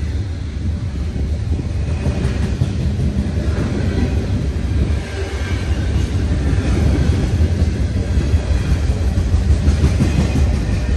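Freight train rolling past at track side: a loud, steady rumble of steel wheels and railcars on the rails, with some clickety-clack.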